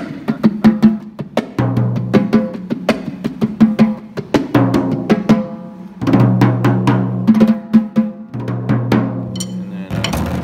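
Drums played with bare hands in conga-style slaps and strikes near the drum edges, in a fast continuous groove. The low drums ring on between the strikes.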